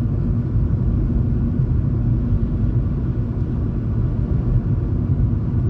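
A car driving, a steady low rumble of engine and road noise heard from inside the cabin.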